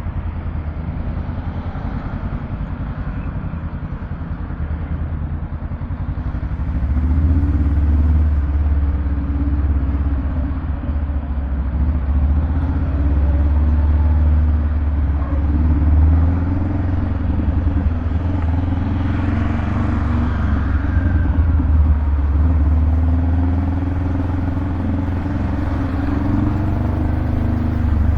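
Honda Rebel 500's 471 cc parallel-twin engine running through a Vance & Hines exhaust, a steady low rumble that gets louder about seven seconds in and stays there.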